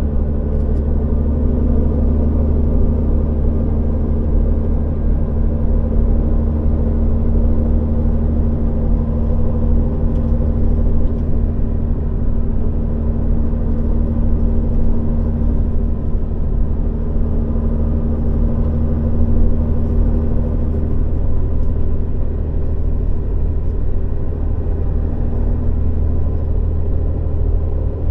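Steady engine and road rumble inside a moving bus, with a constant low hum.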